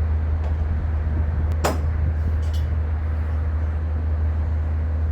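A steady low engine hum that does not change, with one sharp metallic click about one and a half seconds in and fainter clicks just after.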